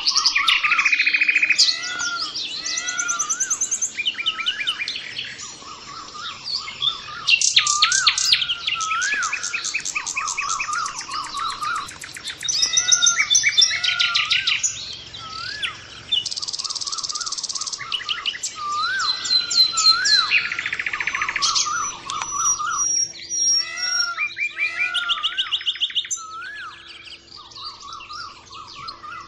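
Songbirds singing: a busy stream of repeated rising-and-falling whistled notes mixed with fast, high trills and chirps.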